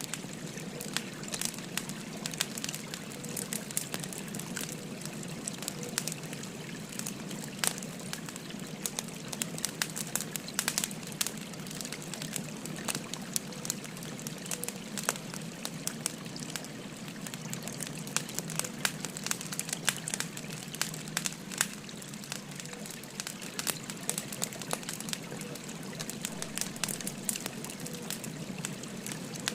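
Wood fire crackling with frequent irregular sharp pops and snaps, over the steady babbling of a flowing stream.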